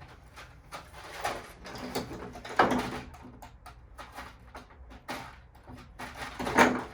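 Handling noise of small patio-heater parts being sorted by hand: scattered rustles and light clicks, with two louder knocks, one a few seconds in and one near the end.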